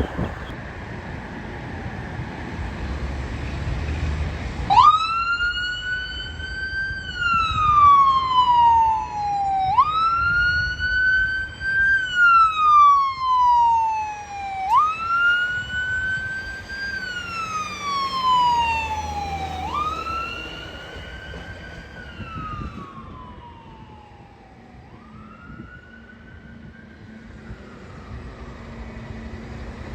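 Emergency vehicle siren in a slow wail, its pitch rising quickly and falling slowly about every five seconds. It starts about five seconds in over traffic rumble and fades away over the second half.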